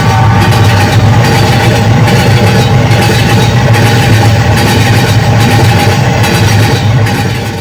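Train engine running with a steady low hum and a faint regular beat a little more than once a second, fading out at the very end.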